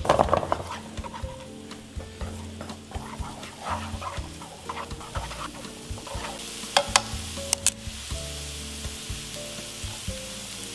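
Diced onion and garlic sizzling in hot oil in a nonstick wok, stirred with wooden chopsticks that click and scrape against the pan. A few sharp clicks come about seven seconds in, and the frying hiss grows stronger in the second half.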